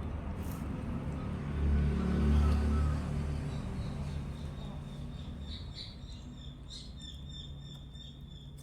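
A low rumble that swells to its loudest about two seconds in and then fades, followed from about halfway by a thin, high-pitched chirping that keeps on steadily.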